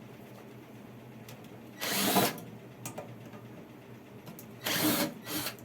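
Power screwdriver running in two short bursts, each about half a second, backing out the screws on a public address amplifier's case.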